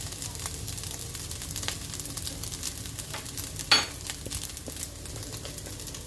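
Rice frying in a pan, a steady sizzle full of small crackles, with one sharp metal clink a little past the middle.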